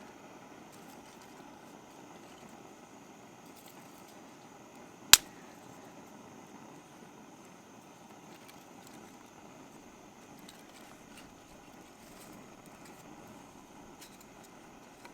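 Faint steady background rush with a single sharp knock about five seconds in.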